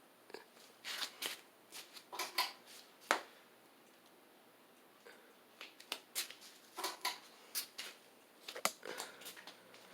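Irregular light clicks and rattles, several a second, in two runs with a pause of about two seconds between them.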